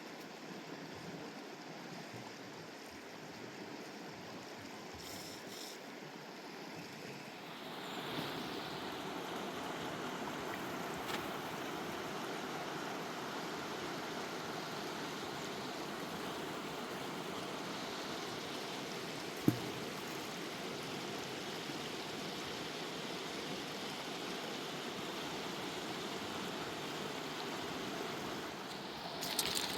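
Fast mountain river rushing steadily, growing louder about eight seconds in. A single sharp click stands out about two-thirds of the way through.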